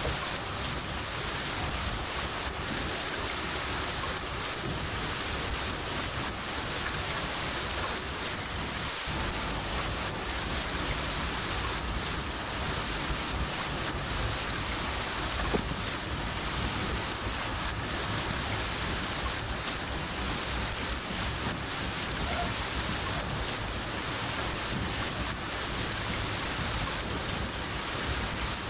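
Cricket chirping steadily, about three high chirps a second, over continuous rain.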